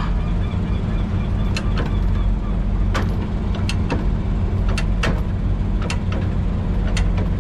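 Semi-truck diesel engine idling steadily, with sharp clicks and knocks at irregular intervals over it.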